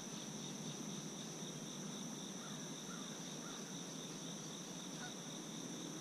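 Steady, high-pitched insect chorus of crickets, with a few faint short chirps scattered through it.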